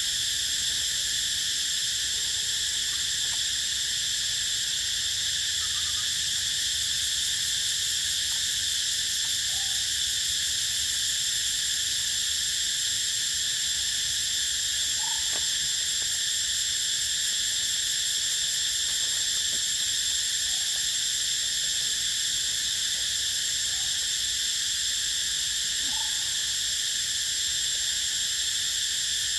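Dense, steady insect chorus of high-pitched buzzing and trilling, with a few faint short calls now and then.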